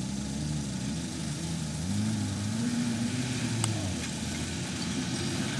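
A vehicle engine running, its pitch climbing a little about two seconds in and easing back down near four seconds.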